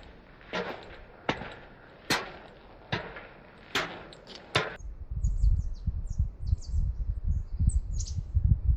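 A hiker's footsteps on a rocky mountain trail, about six steps at a steady walking pace. About five seconds in the sound changes to wind buffeting the microphone, with short high bird chirps.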